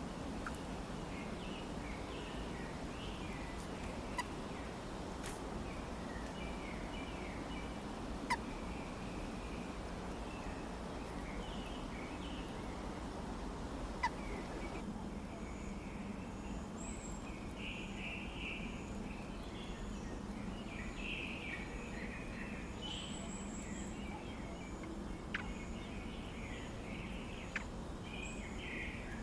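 Birds chirping in short, clustered bursts throughout, over a steady outdoor hiss, with a few sharp clicks.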